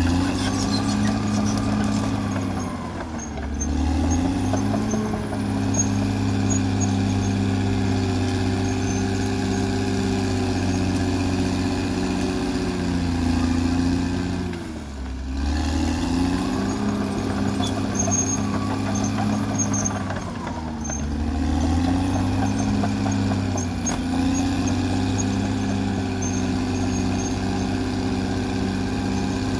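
Caterpillar D6R XL crawler bulldozer's diesel engine working steadily; the engine note drops and climbs back up about three times, at roughly a few seconds in, around the middle and again a few seconds later.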